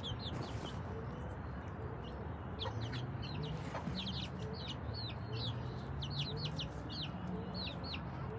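A flock of chicks peeping in quick, high, falling notes, several a second and denser after the first couple of seconds, with a mother hen's low clucking underneath.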